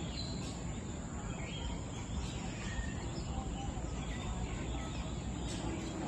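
Short, faint bird chirps and whistles scattered over a steady background hum.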